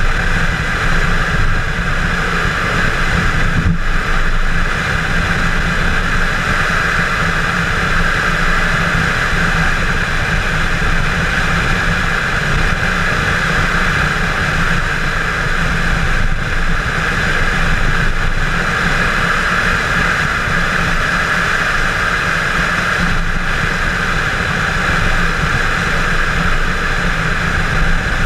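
Chevrolet Camaro 1LE's engine running hard at track speed, mixed with wind and road noise, heard from inside the cabin. It is steady, with a few brief dips.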